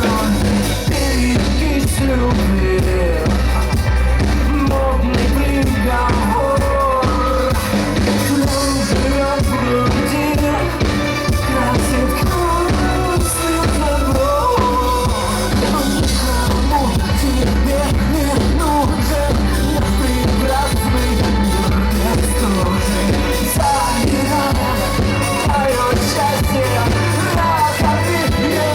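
Live band playing a song with a lead singer, steady and loud, amplified through a club PA.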